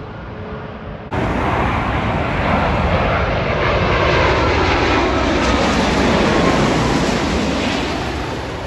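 Jet airliner passing low overhead: loud engine noise jumps in suddenly about a second in, builds to a peak in the middle with a falling whine, and eases off near the end.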